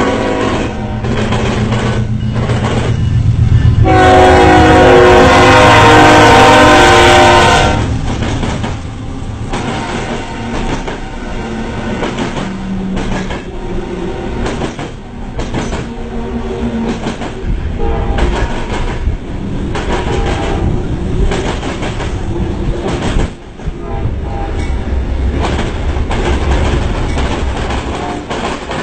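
A train horn blows a steady chord for about four seconds, starting about four seconds in; it is the loudest sound. Around it, passing railcars run with continuous rumble and the clickety-clack of wheels over the rail joints.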